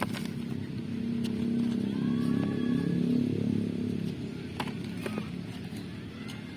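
A motor vehicle's engine running, getting louder for a few seconds and then fading, as if passing by. A few light clicks come near the end.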